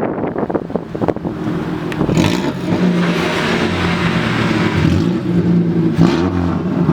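Ford Fiesta ST's engine running while driving, heard from inside the cabin as a steady engine note, with brief dips in pitch about two seconds in and again near the end.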